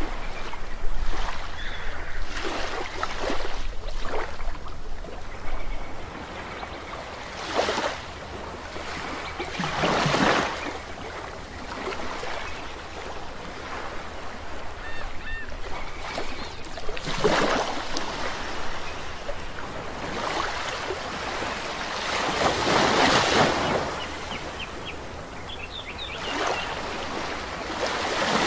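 Sea waves washing onto a shore, each wave surging up and falling back every few seconds. Faint short bird chirps come twice in between.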